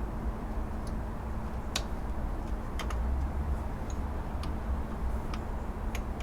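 Scattered light clicks and taps, about seven spread irregularly, from hands and parts being handled in the engine bay while the air-conditioning belt is worked onto its pulleys, over a steady low rumble.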